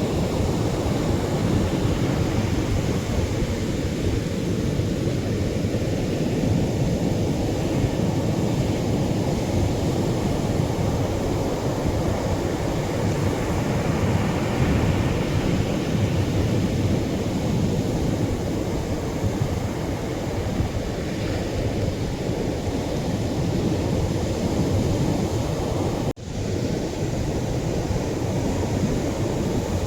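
Atlantic surf breaking and washing on the shore, heavier waves in a steady, deep rush of noise. The sound cuts out for a split second about 26 seconds in, then comes back.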